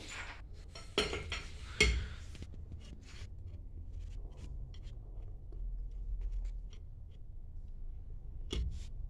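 Small clicks and clinks of metal tools and pump parts being handled, with sharper knocks about one and two seconds in and again near the end.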